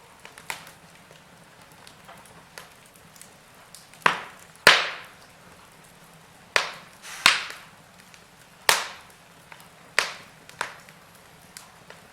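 Wood fire in a fireplace crackling: small scattered clicks over a faint hiss, with about seven loud sharp pops in the second half, each dying away quickly.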